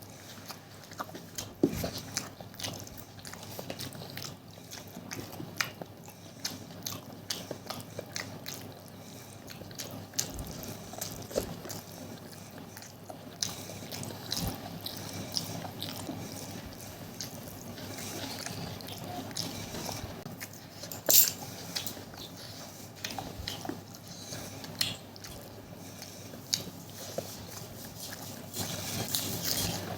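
Close-miked eating sounds from someone eating masala egg curry and Maggi noodles: wet chewing, lip smacks and slurps, with irregular small clicks and one louder smack about two-thirds of the way through.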